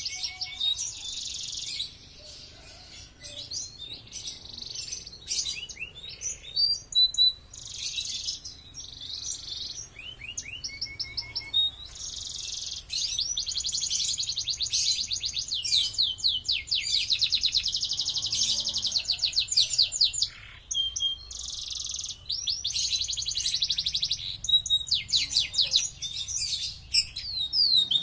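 Domestic canary singing a long song of fast trills and rapidly repeated high notes, phrase after phrase with short pauses between.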